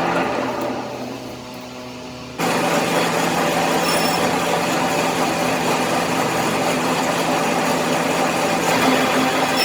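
A machine running with a steady hum and whir. It fades down briefly near the start, then comes back suddenly at full level about two and a half seconds in.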